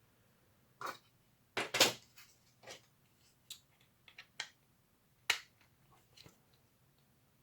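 Hard plastic blaster shell halves and 3D printed parts being handled and fitted together: scattered light clicks and taps of plastic on plastic, with two louder knocks, one about two seconds in and one past the middle.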